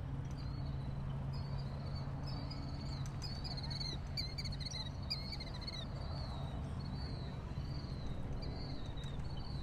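Crickets chirping in short pulsed chirps, repeated every half second or so and busiest in the middle, over a steady low hum.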